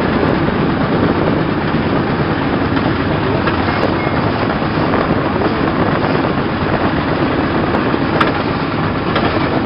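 Diesel motorboat engine running steadily, with wind buffeting the microphone.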